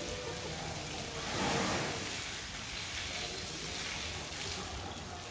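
Rushing, splashing water, swelling briefly about a second and a half in.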